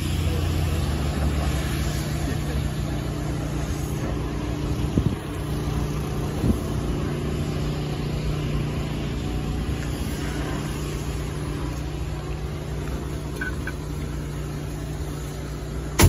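Plymouth Belvedere's 383 cubic-inch V8 idling steadily, with two brief knocks about five and six and a half seconds in.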